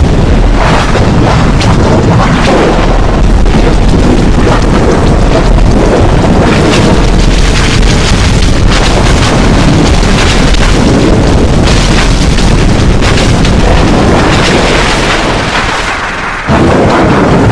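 Very loud, heavily distorted, rumbling noise from audio pushed through stacked effects, dense and boom-like throughout. It sags briefly near the end, then cuts sharply back in at full loudness.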